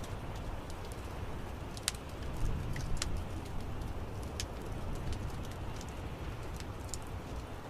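Wood fire crackling, with scattered sharp pops and snaps, two louder ones about two and three seconds in, over a steady low rumble of the flames.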